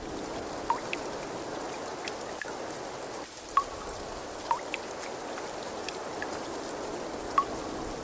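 Steady trickling, running water with about six bright droplet plinks scattered through it.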